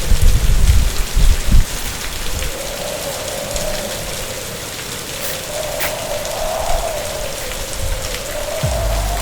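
Heavy rain pouring during a typhoon, a dense steady hiss, with a wavering tone rising and falling over it. Low rumbles come in the first second and a half and again near the end.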